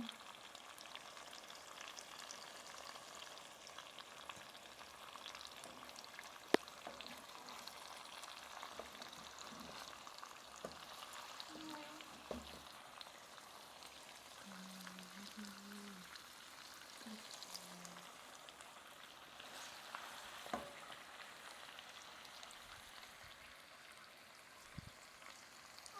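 Food frying in a pan: a steady, quiet crackling sizzle, with a couple of sharp clicks along the way.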